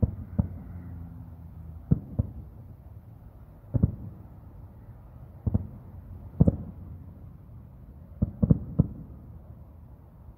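Distant fireworks going off: about ten sharp bangs spread over ten seconds, some coming in quick pairs and triplets.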